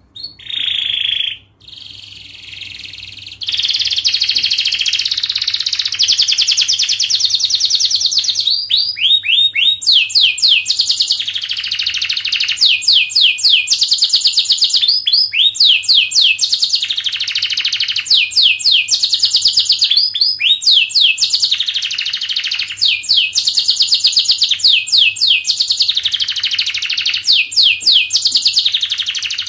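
Domestic canary singing a long, dense song of fast trills: runs of rapid repeated notes and quick rising sweeps, many per second, going on almost without a break after the first few seconds.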